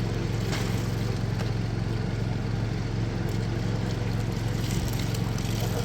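A motor running steadily with an even low drone, with a few faint clicks over it.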